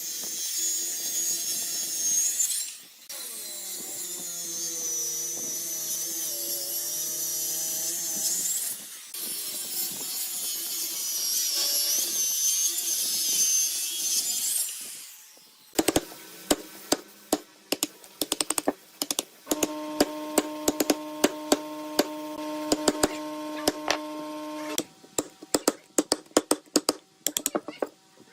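An electric power tool working wood, its motor pitch dipping and recovering under load. About halfway through it stops, and a quick run of sharp taps and knocks follows, with a steady motor hum for a few seconds in the middle of them.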